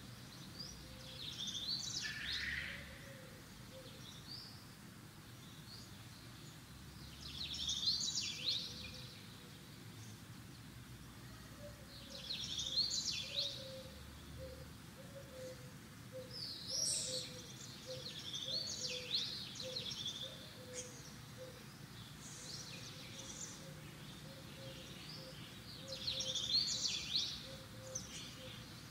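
A bird singing: short phrases of high chirps every few seconds, over a faint steady background hum.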